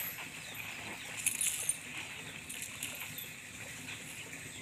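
Outdoor ambience of birds chirping again and again, with a short burst of crackly rustling, like dry straw being disturbed, about a second and a half in.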